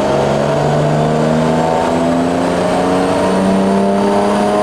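Turbocharged BMW S54 straight-six in an E30 M3 running at light, steady load on a dyno, heard from inside the cabin. Its note climbs slowly, with a faint high whine above it. The engine is being run at about 0.2 bar boost to circulate and cool the water in the intercooler circuit before a power run.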